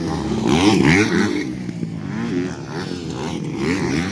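Several motocross dirt bikes racing, their engines revving up and down through the gears in overlapping sweeps of pitch, loudest about a second in.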